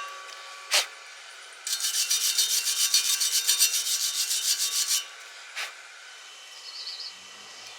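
Fast rhythmic scraping strokes on metal for about three seconds, with a single sharp click before and another after.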